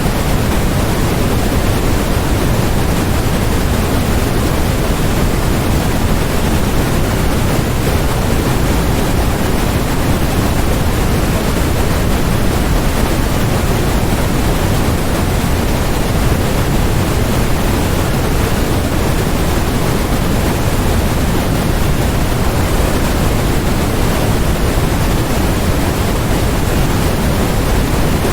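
Steady, unchanging electronically generated noise, sold as white noise, with more weight in the low end than the highs, like pink noise.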